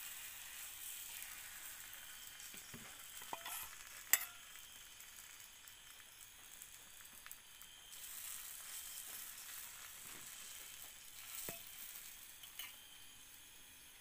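Egg omelette topped with tomato slices sizzling in a little oil in a flat iron pan: a faint, steady frying hiss, with a few sharp clicks, the loudest about four seconds in.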